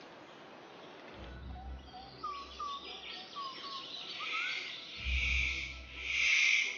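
Forest ambience with a bird calling: a series of short whistled notes, then a higher hissing sound that swells and fades twice near the end, over intermittent low rumbles.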